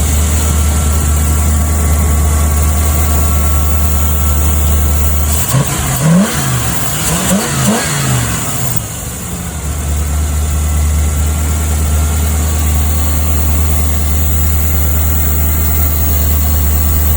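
Ford F-150 engine idling steadily on a newly fitted ACES EFI throttle-body kit, running after a long no-start. About five seconds in, the revs rise and fall several times over a few seconds, then settle back to idle.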